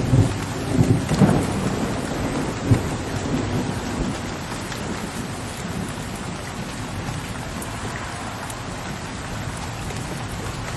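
Steady rain with a low, distant rumble of thunder that fades away over the first few seconds, leaving the even patter of rain.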